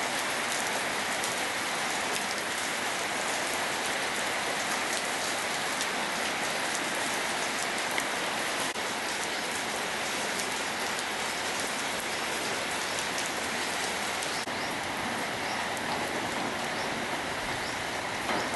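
Rain falling steadily, with scattered sharp ticks of single drops striking a surface.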